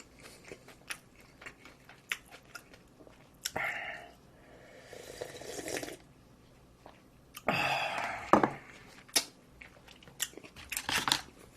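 A person chewing and crunching food close to the microphone, with many short wet mouth clicks and a few longer, louder noisy stretches in the middle.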